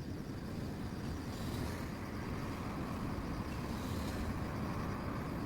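Grass insects (crickets) trilling steadily and high, over a louder low rumble that swells slightly after a couple of seconds.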